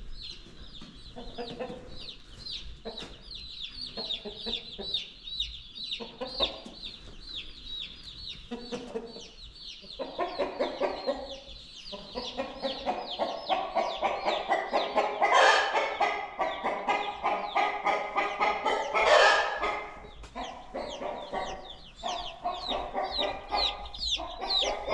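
A brood of young meat chicks peeping continuously in quick, high, falling chirps. From about ten seconds in, louder and lower chicken calls join them, loudest twice in the second half.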